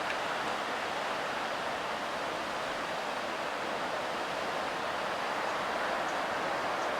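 Steady roar of heavy surf from a large typhoon swell, an even hiss with no single wave crash standing out.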